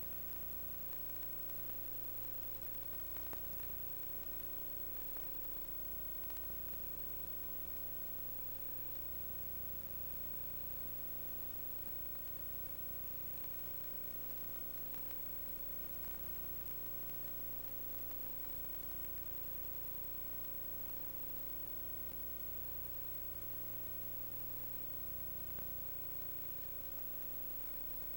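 Steady electrical hum and hiss with a few constant tones, and one faint click about three seconds in.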